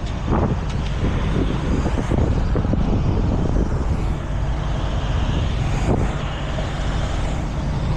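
Heavy truck engine idling steadily, with a few light knocks and clicks of hookup work.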